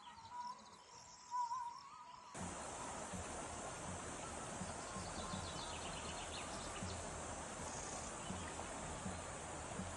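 Rural outdoor ambience. It opens with a faint wavering chirp-like call; about two seconds in it switches abruptly to a steady rushing hiss, with a few faint high chirps over it.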